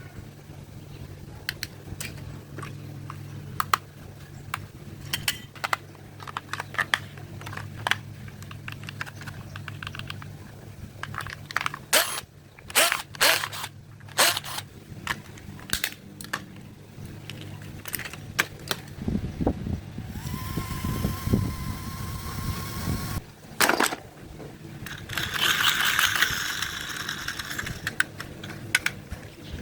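Scattered clicks and knocks of old plastic toys being handled, over a steady low hum. A steady higher tone with hiss sounds for about three seconds past the middle, and a short noisy rustle comes near the end.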